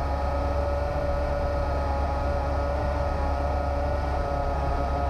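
Bush plane's piston engine and propeller running steadily at cruise, a constant drone with a steady pitched hum.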